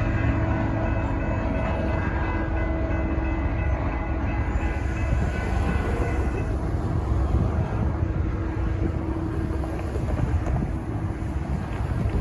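A train passing close by: a heavy, continuous rumble, with steady tones over it that fade away about six or seven seconds in.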